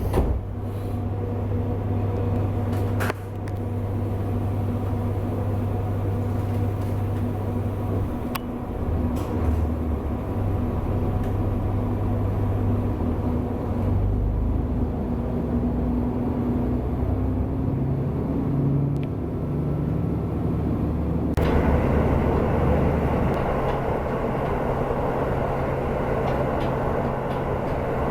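Interior of a JR Hokkaido one-man local train running: a steady low rumble with a humming drone from the running gear and motor. About three quarters of the way through, a louder rushing noise suddenly joins and stays.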